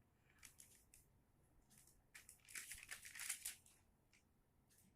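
Faint crinkling and rustling of something being handled, most of it in a short burst about halfway through, against near silence.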